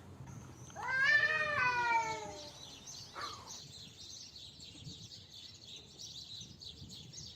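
A cat's aggressive fighting yowl: one loud, drawn-out cry with a slowly falling pitch, about a second and a half long. It is followed by steady high chirping.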